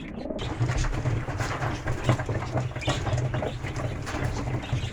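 Pigeons cooing low and continuously, over a steady patter of rain with many small ticks.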